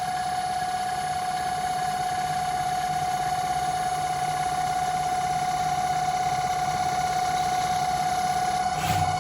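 Home-built CNC lathe running, a steady high whine over a low hum from its motors.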